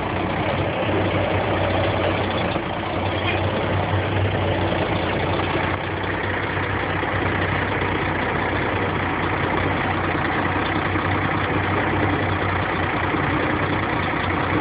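Truck engine running steadily at idle, a constant low hum with no change in speed.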